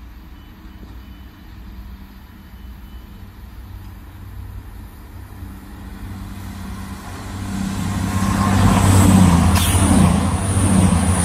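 CrossCountry Class 220/221 Voyager diesel multiple unit passing through the station at speed, growing from about six seconds in to a loud rush of engine and wheel noise as it goes by near the end. Under it early on, a steady low hum from a Class 165 diesel unit idling at the platform.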